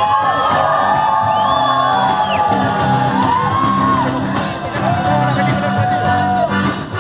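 Live band music with a steady beat and sustained chords, and a voice singing long, sliding wordless notes over it, with whoops.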